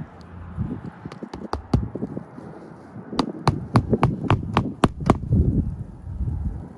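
Hammer driving roofing nails into asphalt shingles: a few sharp blows, then a quick even run of about eight taps, some four a second.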